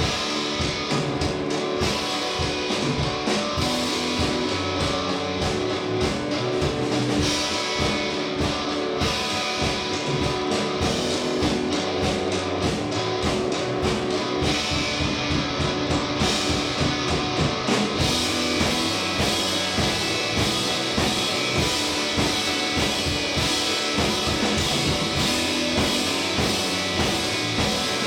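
A live indie rock band playing: electric guitar and drum kit in a steady, continuous full-band passage. The high end gets brighter and fuller about two-thirds of the way through.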